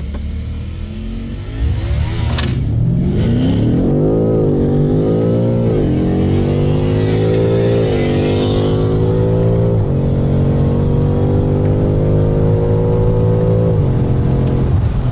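Car engine accelerating hard through the gears: its pitch climbs steeply, then drops back at each of about five upshifts, with each later gear pulling longer.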